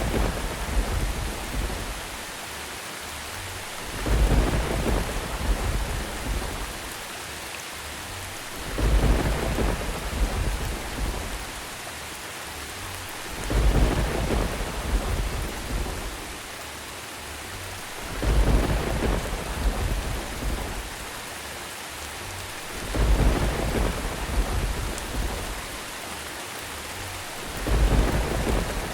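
Steady rain with a rumble of thunder about every five seconds, each swelling quickly and fading over a couple of seconds.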